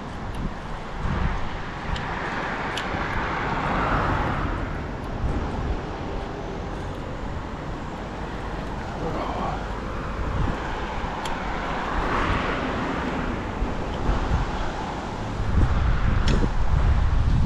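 Road traffic noise, with cars swelling past about twice, under low wind rumble on the microphone that grows louder near the end.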